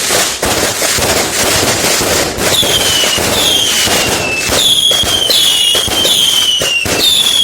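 Fireworks going off in a dense run of crackling bangs. From about two and a half seconds in, about six shrill whistling shots go up one after another, each whistle falling in pitch.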